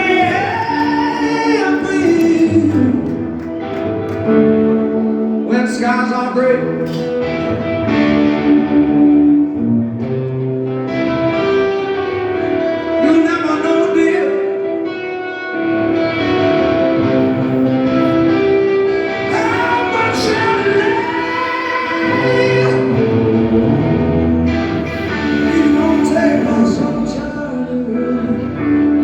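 Rock song: a singer's voice, with long sliding sung notes, over guitar and band.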